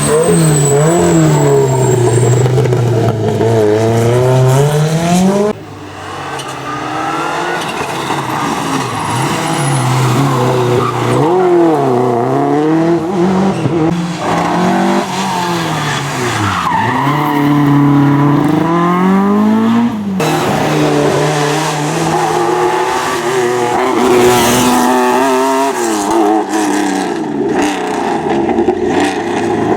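Rally car engines revving hard, with repeated rises and drops in pitch as the cars accelerate, change gear and lift off. The sound changes abruptly twice, about five seconds in and about two-thirds of the way through, as a different car takes over.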